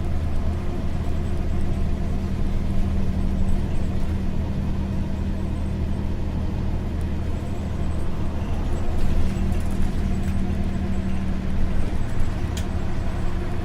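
Isuzu U-LV224N bus's 6QB2 V8 diesel running steadily while the bus drives, a low drone heard from inside the cabin. Near the end the engine note changes, and there is a single sharp click.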